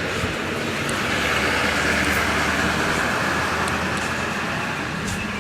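Road traffic noise: a steady rush of a passing vehicle that swells about two seconds in and eases off.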